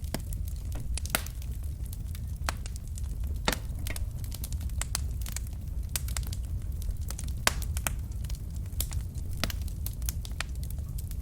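Wood fire burning in a fireplace: logs crackling with frequent sharp clicks and occasional louder pops over a steady low rumble of the flames.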